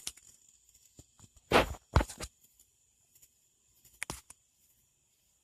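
A few brief knocks and rustles, the strongest two about one and a half and two seconds in, over a faint steady high tone.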